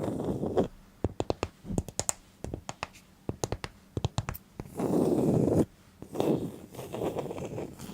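Irregular tapping and clicking, with a few longer scratching or scraping passes about five seconds in and again shortly after.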